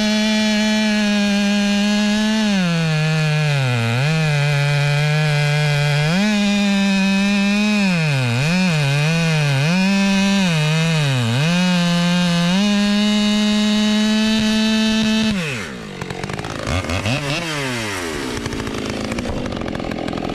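Husqvarna 572 XP two-stroke chainsaw cutting at full throttle, its pitch sagging again and again as the chain bites into the log and recovering between cuts. About fifteen seconds in the throttle is released, and the saw falls to a rough idle with one more quick blip.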